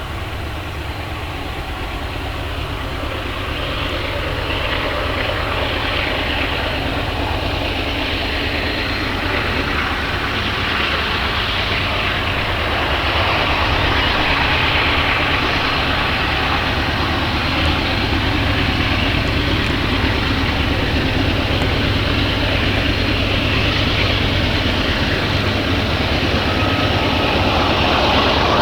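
Union Pacific loaded coal train passing while it works up a grade: a steady rumble of diesel locomotives and rolling cars that slowly grows louder.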